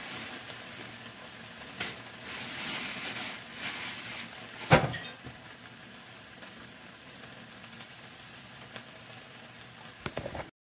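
Chicken pieces with onion and tomato sizzling in a frying pan, the hiss surging in the first half and easing after about five seconds. A single sharp knock about halfway through is the loudest sound, with a few small clicks near the end before the sound cuts off.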